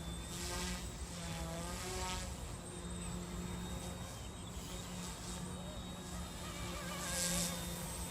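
Eachine E190 PRO RC helicopter's small electric motor and rotor buzzing steadily in flight, with a thin high whine over a low hum, swelling briefly near the end.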